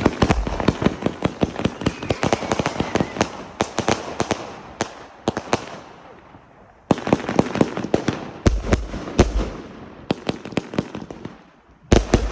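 Fireworks and firecrackers going off in rapid volleys of sharp cracks and bangs, with a few deeper booms. The volleys fade out about five to six seconds in, then start again abruptly about seven seconds in, fading once more near the end.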